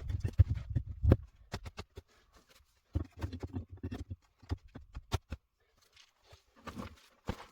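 Irregular knocks and sharp clicks of objects being handled, with heavier low thumps in the first second and again about three seconds in.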